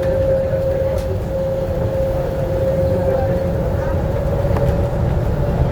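Docklands Light Railway train running along the line, heard from the front of the car: a steady whine over a low rumble of wheels on track.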